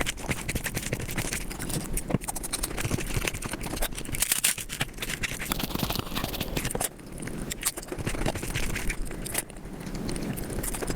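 Eating sounds played back several times faster than normal: a dense, rapid run of chewing and mouth clicks with scraping, without a break.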